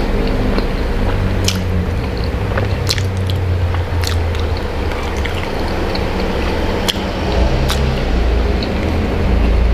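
Close-miked eating sounds: a person chewing a fried chicken burger with wet, squishy mouth noises, lip smacks and finger licking, with sharp wet clicks every second or so. A steady low hum runs underneath.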